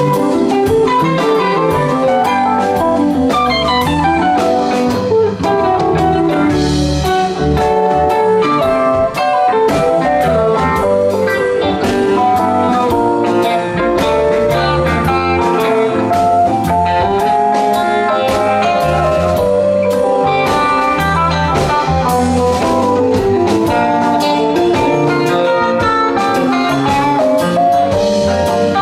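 Live rock band playing an instrumental jam without vocals: guitar lead lines running over bass guitar and drum kit.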